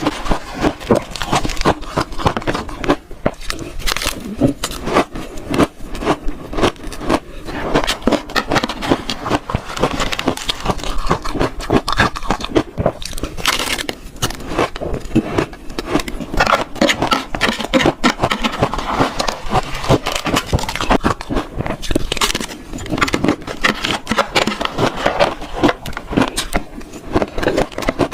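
Close-miked chewing and crunching of shaved ice, with many crisp crackles and crunches several times a second as icy spoonfuls are bitten and chewed.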